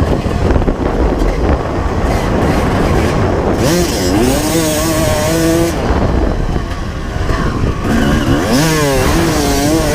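Honda CR250R two-stroke motocross engine running under riding, its note climbing and dropping back about four seconds in and again near the end.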